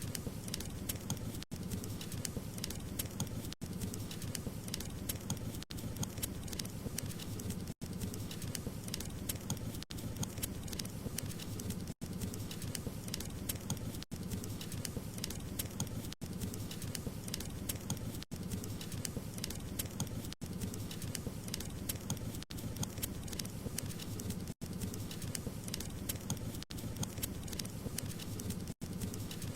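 Wood fire burning: dense crackles and pops over a steady low rumble, broken by a very brief silent gap about every two seconds.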